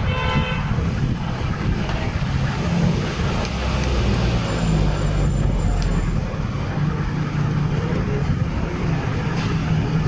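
Steady low engine rumble with road-traffic noise, like a vehicle running close by.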